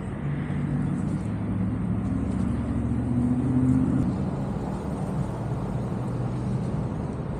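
Motorcycle engine running at low revs, a steady low hum that rises slightly for a moment midway and settles back.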